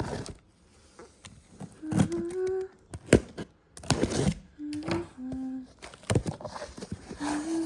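Small boxes and packaging being handled and opened: rustling and scraping with several sharp knocks. A voice hums short notes in small rising steps between them.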